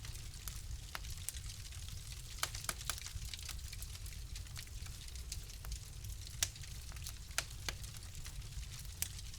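Wood fire in a fireplace crackling: irregular sharp pops and snaps over a low, steady rumble, with the loudest pop about six and a half seconds in.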